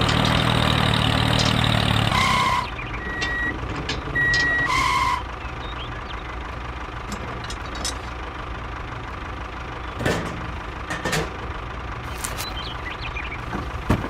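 A truck engine running loudly for about two and a half seconds, then four short high beeps like a reversing alarm, then a quieter steady engine hum with a few scattered clicks.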